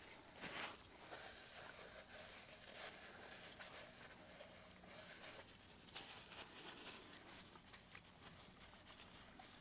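Near silence: faint rustling and small clicks, with one brief louder rustle about half a second in.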